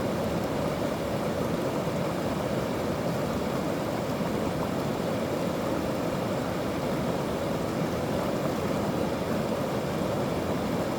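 Mountain stream rushing steadily, an even roar of water with no breaks.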